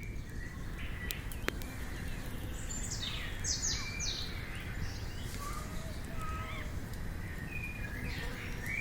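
Wild birds singing and calling: scattered whistled notes and quick falling chirps, busiest three to four seconds in, over a steady low rumble.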